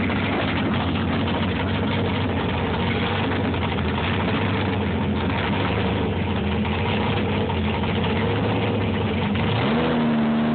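Dodge Challenger drag car's engine idling with a steady low drone; about nine and a half seconds in, the revs climb and hold higher.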